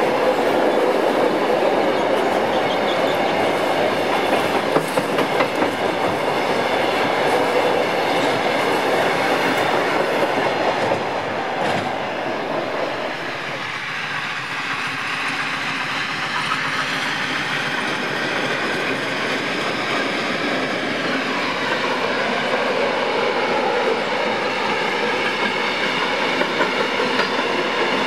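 Passenger train carriages rolling past, wheels clattering over rail joints. The sound dips briefly about halfway through and then builds again as the carriages go by.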